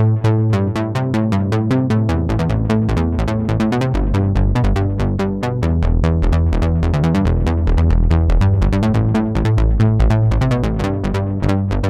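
Arturia MatrixBrute analog synthesizer playing a ladder-filter bass patch in a fast, even electronic rhythm; the bass drops to deeper notes about two seconds in.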